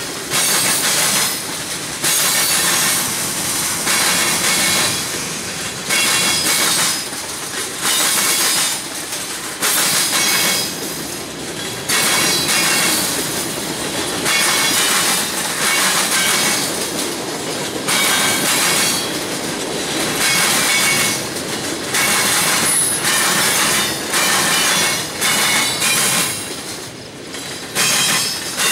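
Freight car wheels banging across a railroad diamond crossing as a freight train rolls through: a loud clattering crash about every two seconds as each set of trucks hits the crossing frogs, over steady rolling noise.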